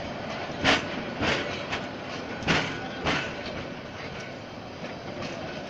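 Metre-gauge passenger coaches of a local train rolling past, their wheels clacking over the rail joints in pairs of knocks, with a steady rumble between.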